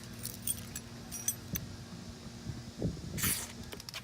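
A few light clinks as an aerosol can of WD-40 water-resistant silicone is handled, then a short spray hiss about three seconds in.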